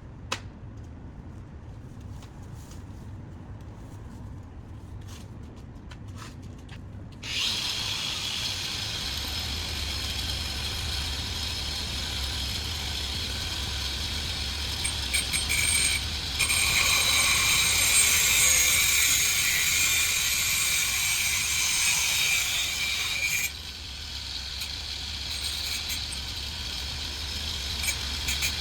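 Pole-mounted angle grinder starting up about a quarter of the way in and running with a steady high-pitched grinding hiss. It is louder for several seconds in the middle, then drops back near the end.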